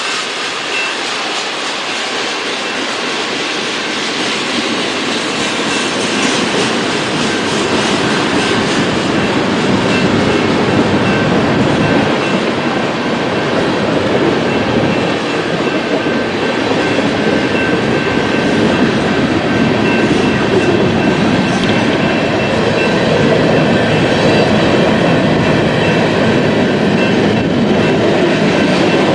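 Freight train cars rolling past, wheels clacking over the rail joints, steady and getting slowly louder, with a faint high steady whine from the wheels.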